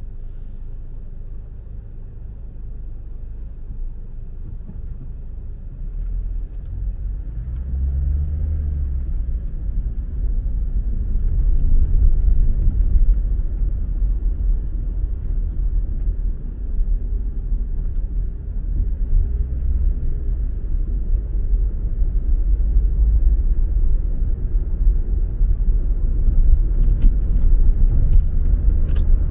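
Low, steady rumble of a car driving on the road, engine and tyre noise, growing louder about six seconds in and staying loud. A few faint clicks come near the end.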